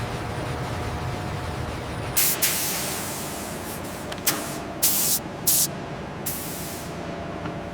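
Several short bursts of pressurised hissing, like a spray or an air jet, each lasting a fraction of a second, starting about two seconds in, over a steady background of machinery noise.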